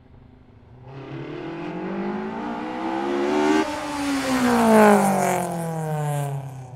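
Car engine sound effect: the engine revs up with its pitch climbing for a few seconds, then the pitch drops suddenly and winds down steadily.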